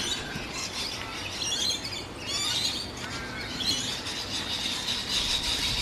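Wild birds chirping and calling in short, quick runs of high notes, with a steady high tone joining a little past halfway.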